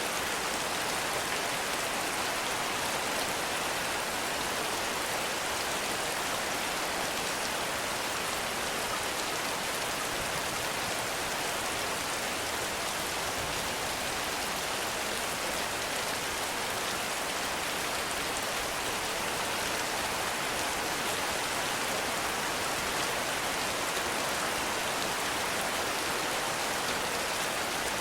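Heavy rain falling steadily, an even hiss of dense drops with no letup.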